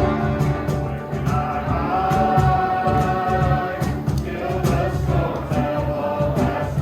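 Music: a group of voices singing held notes over instruments with a steady beat.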